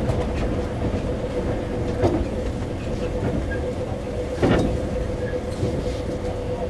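Taiwan Railway electric multiple-unit commuter train running, heard from inside the passenger car near the floor: a steady rumble with a held tone above it, and two louder clacks, about two seconds in and again about four and a half seconds in.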